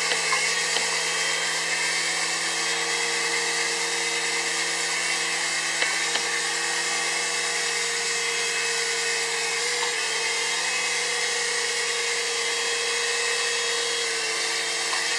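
QS9005 3-channel RC toy helicopter's small electric motors and rotor blades running with a steady high whine.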